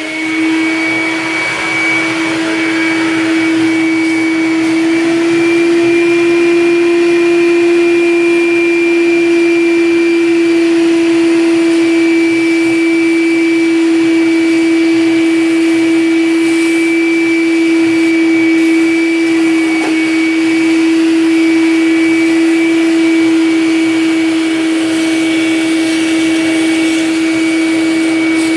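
Shop vac motor having just spun up and now running steadily with a high whine, vacuuming water out of a refrigerator's drip pan.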